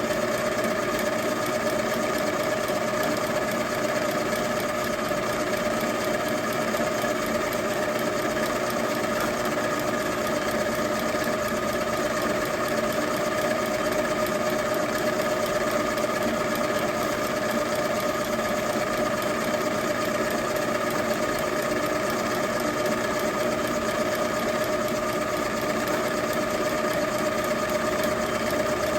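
Milling machine running steadily with a constant motor whine, drilling out the stripped fuel-inlet threads of a Zenith carburetor to take a Heli-Coil insert.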